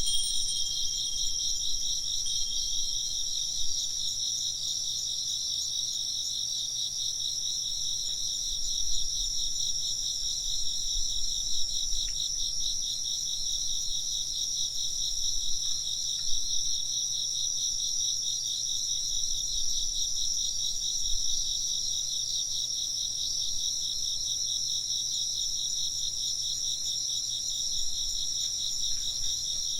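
Many insects chirping in steady, rapidly pulsing high trills that overlap continuously. A single wind-chime tone rings briefly at the very start.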